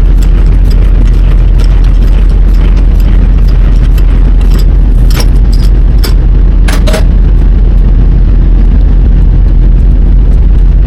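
Semi truck's diesel engine running, a loud steady rumble, with two sharp clicks about five and seven seconds in.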